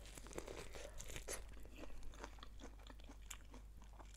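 Close-up chewing of food, a mouthful crunching in a steady run of small, crisp clicks.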